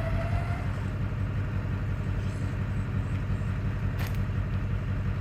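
An engine idling steadily, a low even rumble, with a short click about four seconds in.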